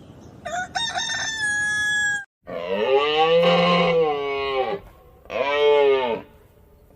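Rooster crowing: a thin high call, then a long arching crow of about two seconds, then a shorter crow about a second long.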